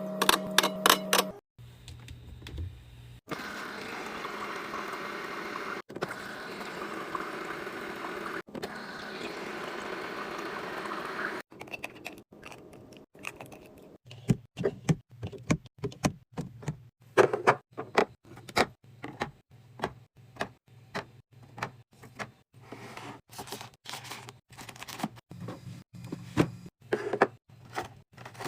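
Food containers and packaging being handled and put away while restocking a fridge. A steady rushing sound runs for several seconds and is cut off abruptly a few times. After that comes a long run of irregular clicks and knocks as items are set down.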